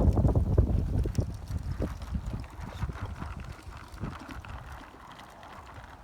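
Wind gusting across the microphone: a low, rough rumble, loud at first and dying down over the last couple of seconds.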